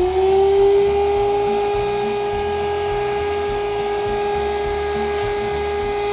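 A high-speed electric motor spins up with a quick rising whine, then runs at a steady high-pitched whine.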